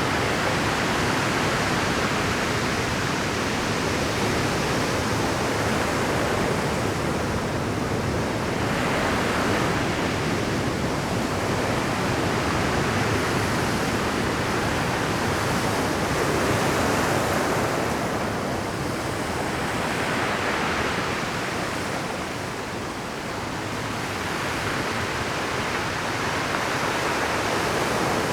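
Rough Pacific surf breaking continuously on a rocky shore, a dense wash of noise that swells and eases every few seconds as successive waves crash in.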